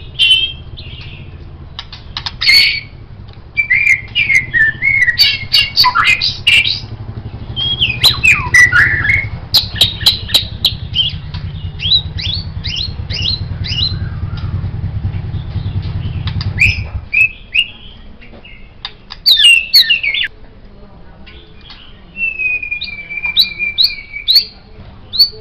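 White-rumped shama singing a varied song of rising and falling whistles, harsh clicking notes and quick runs of short notes, with one long held whistle near the end. A low steady hum runs underneath and stops about two-thirds of the way through.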